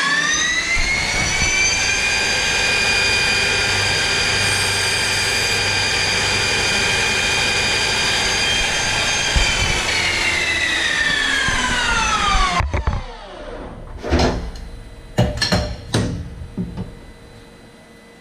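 CNC lathe spindle whining as it spins up, holding at steady speed during the finishing pass on the bore of a plastic roller, then winding down and stopping about twelve seconds in. A few sharp knocks and clicks follow.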